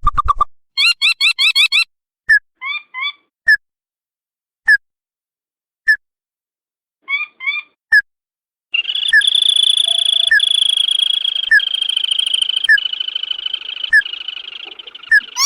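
Lure-call recording of a burung tikusan crake: short, sharp call notes repeated about once a second, with a few quick trilled bursts. From a little past halfway a continuous high whine sounds under the notes.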